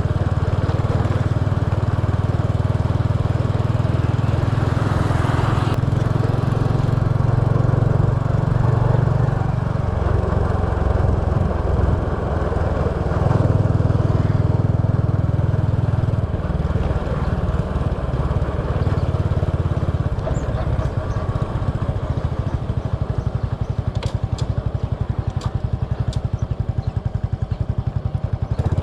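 Small motorbike's engine running while riding, its note and load shifting as it speeds up and eases off, with the rider's own wind and road noise. About halfway through it drops to a lower, more pulsing beat.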